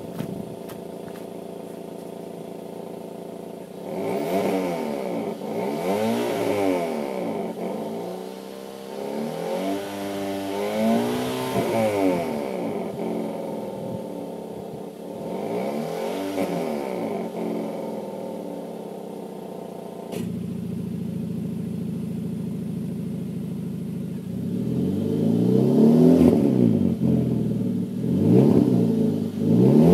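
Hyundai Avante MD's exhaust, fitted with a stock-style variable exhaust valve, mid-pipe and open intake, idling and then revved in a series of free-revving blips that rise and fall. About two-thirds through, the idle becomes louder and deeper, and the last revs are the loudest.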